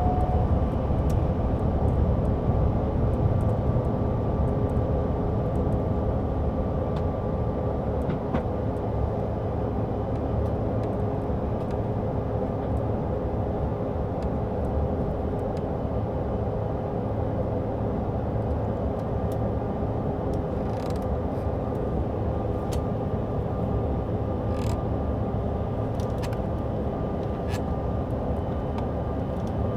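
Steady jet cabin noise inside a CRJ-550: the drone of its rear-mounted General Electric CF34 turbofans and the airflow, with a steady hum and a thin whine over it. A few faint clicks in the second half.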